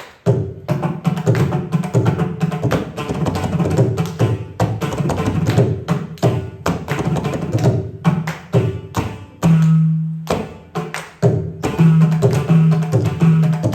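Hand drums playing a fast, dense Carnatic rhythm. Deep ringing bass strokes come in about two-thirds of the way through and again near the end.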